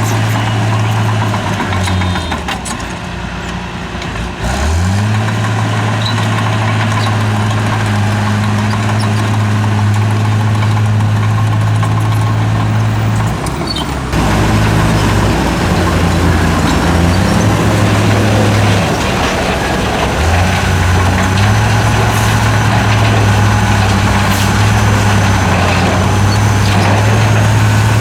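Heavy diesel engine of earthmoving machinery running under load, its pitch dropping about two seconds in and climbing back up a couple of seconds later, then shifting up and down as the machine works.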